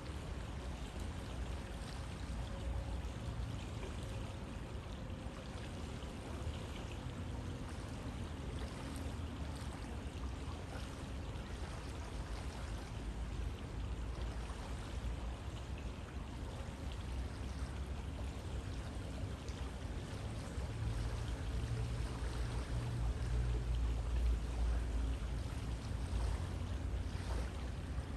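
River water flowing: a steady rush of water with a low rumble that grows somewhat louder about three-quarters of the way in.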